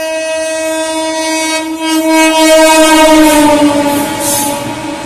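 An Indian Railways locomotive's horn sounds one long blast as the train passes. Its pitch drops as the locomotive goes by, about three seconds in. The rising noise of the train running past peaks midway and then fades.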